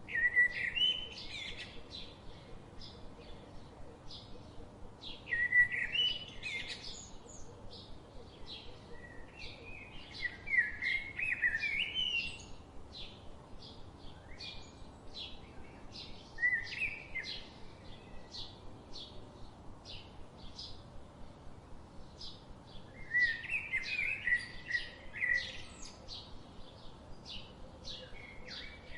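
Songbirds singing. One bird repeats a warbled song phrase about every five or six seconds, over a constant quick series of short, high chirps from other birds.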